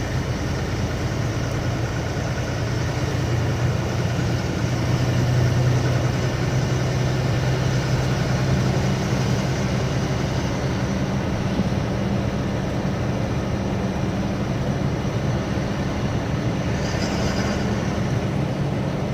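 Lorry's diesel engine running steadily under way, a low even drone with road noise, heard from the cab.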